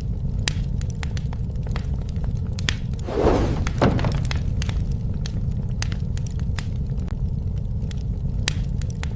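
Campfire burning: a steady low rumble with frequent sharp crackles and pops from the burning wood, and a louder crunching rush lasting about a second, three seconds in.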